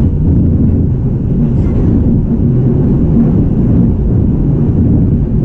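E233-series electric train running, heard inside the passenger car: a steady low rumble of wheels on the rails and running gear.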